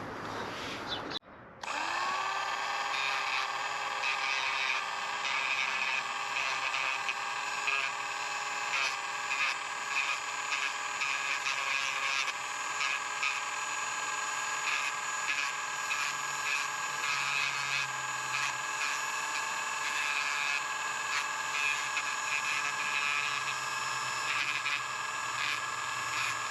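A small electric plastic-welding tool starting up about two seconds in and running with a steady motor whine, with light scraping at the plastic over it as the cracked side cover is welded.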